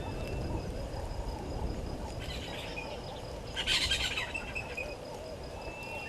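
Wild birds calling in the bush: a run of short repeated calls with a few thin high chirps, and a brief louder scratchy burst of chatter about three and a half seconds in.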